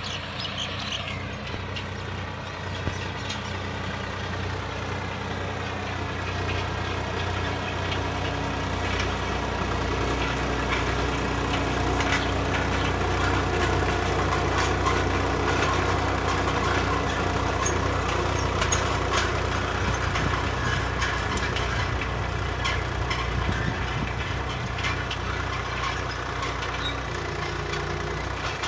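Swaraj 969 FE tractor's diesel engine running steadily, growing louder over the first ten seconds or so.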